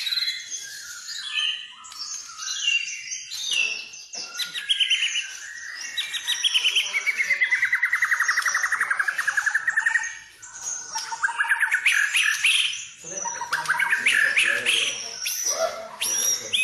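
White-rumped shama singing a varied song of whistled phrases and fast trills; about halfway through comes a long, rapid trill that dips in pitch and rises again.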